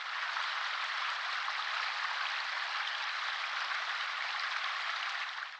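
A steady, even patter like rain or sleet falling on a surface, which starts abruptly and cuts off suddenly at the end.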